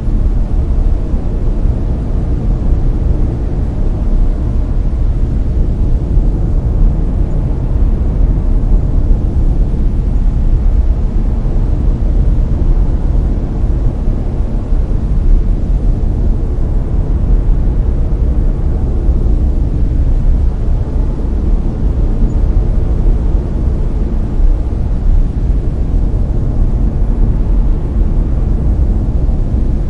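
Layered brown noise: a steady, deep hiss with most of its weight in the bass and little in the treble, unchanging throughout.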